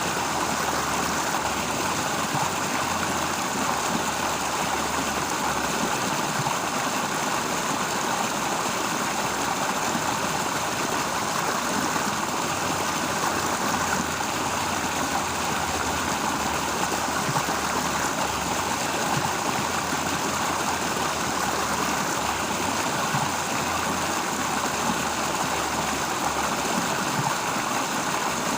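Steady rushing of a flowing stream, even throughout with no separate events.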